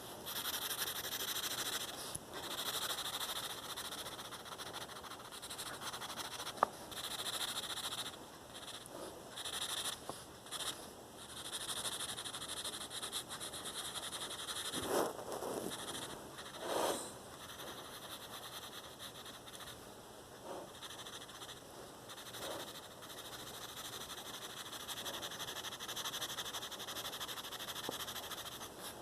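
Graphite pencil scratching and shading on paper, in stretches of strokes that start and stop, with a couple of louder rubbing sounds about halfway through.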